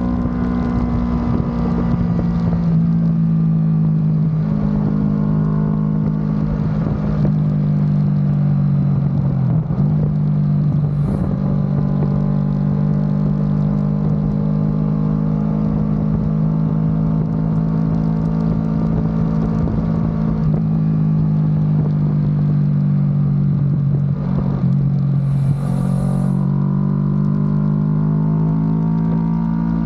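Kawasaki Ninja 650's parallel-twin engine with an Akrapovic exhaust running under way at fairly steady revs. Its note dips briefly and climbs again twice, about a third of the way in and again near the end.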